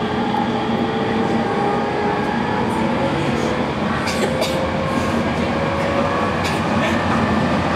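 Cabin noise of an Aoimori Railway 701-series electric train pulling away: steady running rumble with a motor whine slowly rising in pitch as it gathers speed, and a few sharp clicks from the wheels over rail joints around the middle.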